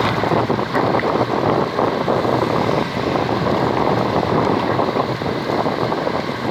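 Steady rushing noise aboard a fishing boat at sea, with wind buffeting the microphone.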